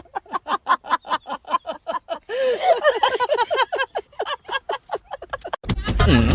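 An animal giving a fast run of short, pitched calls, about seven a second. Near the end a louder low rumble and voices come in.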